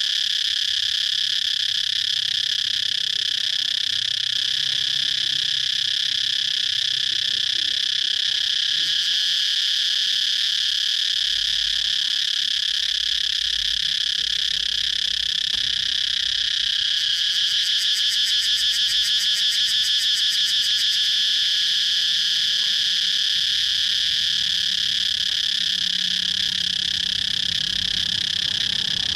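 Cicadas buzzing in a steady, unbroken high chorus, with a faster pulsing call laid over it for a few seconds a little past the middle.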